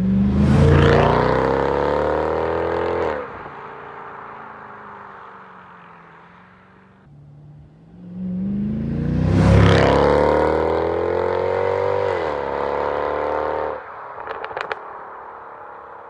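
Mercedes S63 AMG V8 through an aftermarket sport exhaust, revved up twice. Each time the pitch climbs, holds for a few seconds, then drops sharply when the throttle is released. Between the revs it settles back to a lower running note, and a few short crackles come near the end.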